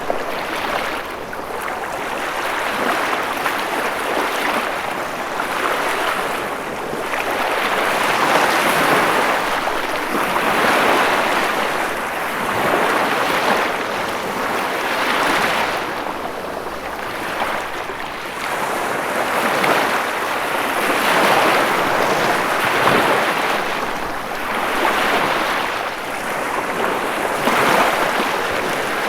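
Ocean waves washing ashore, a continuous rush of surf that swells and recedes every two to three seconds.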